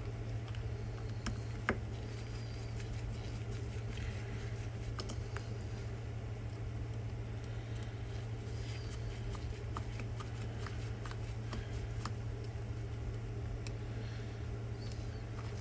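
Light scattered clicks and taps of a small plastic key fob being handled and worked open, with one sharper click about two seconds in, over a steady low hum.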